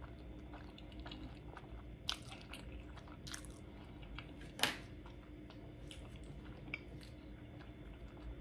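Quiet, close-miked chewing of a mouthful of cheesy spicy instant ramen noodles: soft wet mouth sounds with a few sharp smacks or clicks, the loudest about four and a half seconds in.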